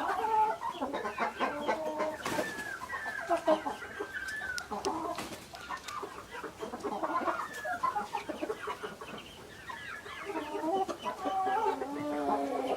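Several chickens clucking and calling over one another, with one longer drawn-out call from about two seconds in.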